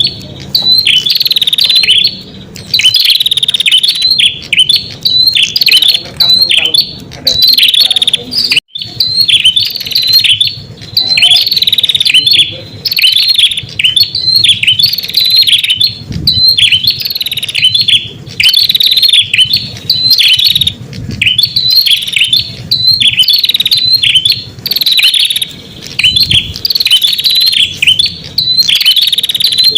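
Prenjak song played as a lure call: fast, high chirping phrases repeated in runs of a second or two with short breaks between them.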